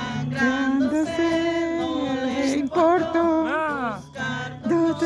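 A song with a sung voice holding long notes over a steady low accompaniment, the voice sliding up and down in pitch about three and a half seconds in.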